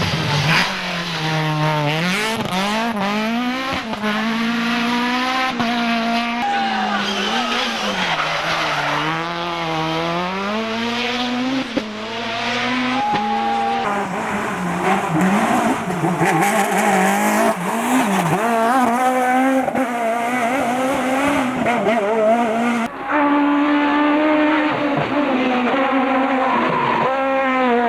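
Rally kit car engines at full throttle, the revs climbing and dropping again and again through gear changes and lifts. The sound changes abruptly about halfway through and again near the end, as different cars take over.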